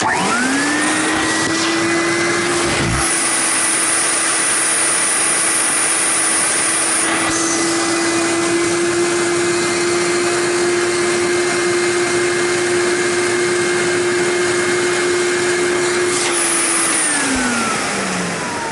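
Electrolux Marquise canister vacuum motor switched on, spinning up within a second to a steady whining run, then switched off near the end and winding down with falling pitch. The motor is worn, which the owner calls tired.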